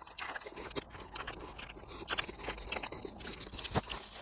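Eating sounds close to the microphone: scattered soft clicks and small scrapes of eating from a plate, with no speech.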